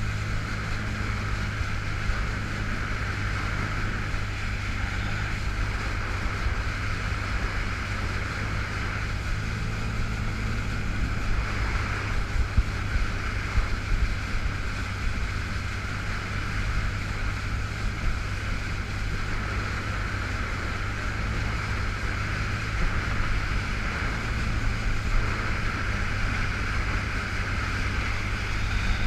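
2005 Yamaha FX Cruiser H.O. jet ski's four-stroke engine running steadily under way, with the rush of water and wind on the helmet-mounted microphone. The ski is stuck in Lo-Mode, limited to about 85% power.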